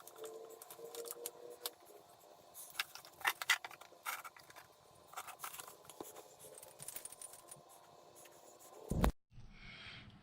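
Scattered light metallic clicks, scrapes and clinks of a ratchet and socket working at a motorcycle's oil drain plug, with a sharper cluster of clicks about three seconds in. A low thud comes about nine seconds in, then the sound cuts off.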